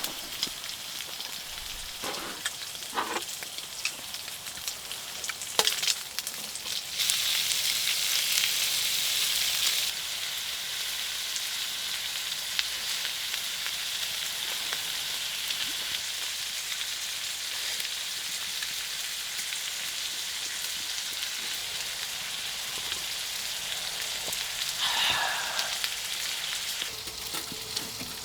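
Food sizzling in a hot pan, a steady hiss that grows louder for a few seconds near the start, with a few light knocks early on and a brief scrape near the end.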